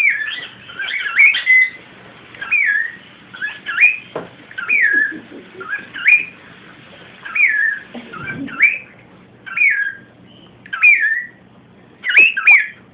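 Cockatiel repeating a whistly, mimicked "come here" over and over, about one short falling-then-rising phrase a second.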